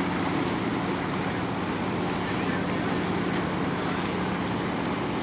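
Steady low engine drone over wind and water noise, with no change in pitch or level.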